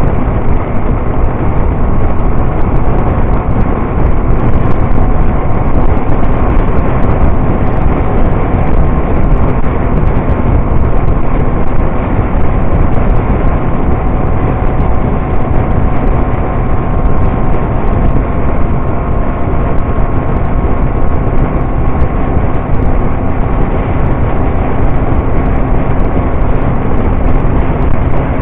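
Motorcycle riding at steady speed: loud, even wind rush over the microphone with a faint steady engine hum underneath.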